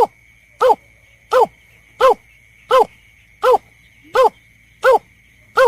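Bird-lure recording of a berkik (belkek) call, a short arched rise-and-fall note repeated at an even pace of about one every 0.7 seconds, around nine calls in all. A faint steady high tone runs underneath.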